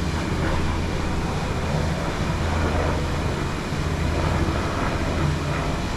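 Steady outdoor rumble: wind on the microphone over a constant low hum.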